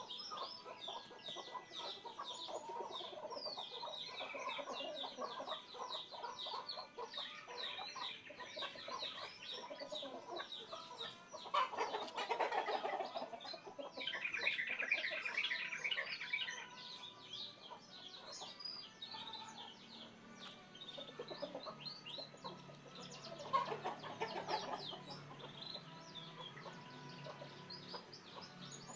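Birds calling: a steady run of short, quick chirps, with louder clucking calls about twelve seconds in and again near twenty-four seconds.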